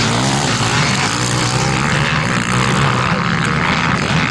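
Off-road motorcycle engines running at high revs in a steady, loud drone, with the pitch wavering near the start.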